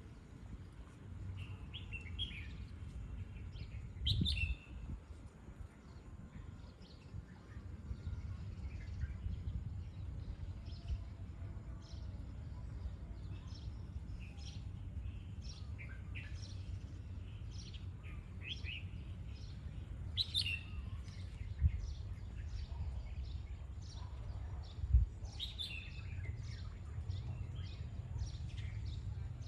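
Red-whiskered bulbul giving short, warbling call phrases every few seconds over a steady low rumble, with a few sharp knocks.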